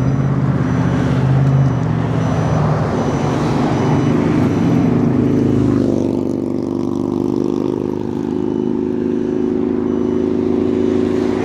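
Street traffic: motor vehicles running close by, with a dense rush of noise for the first few seconds. About six seconds in it settles into a steady, even hum.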